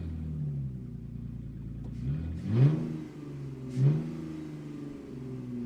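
A car engine idling, blipped twice: about two and a half seconds in and again near four seconds, the revs rise quickly, then fall back slowly to idle.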